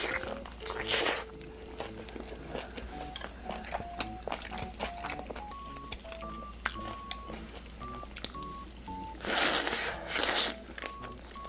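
A person biting and chewing food close to the microphone, with small wet mouth clicks and loud crunchy bites about a second in and again about nine to ten seconds in. Background music of short single beeping notes plays throughout.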